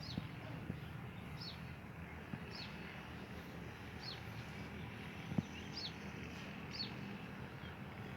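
Brown-throated sunbird giving a short, high chip that falls slightly in pitch, repeated roughly once a second, over a steady low background hum. A single low knock sounds about five seconds in.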